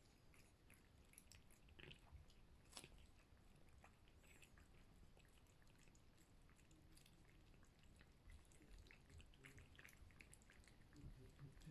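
Faint, scattered small clicks and smacks of cats chewing food, over near-silent room tone.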